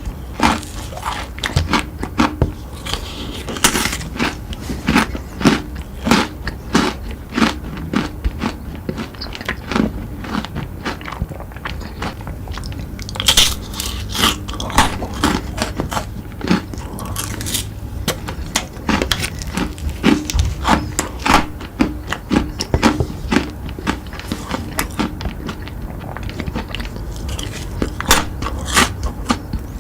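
Someone biting and chewing crunchy chocolate sweets: a long run of crisp, irregular crunches.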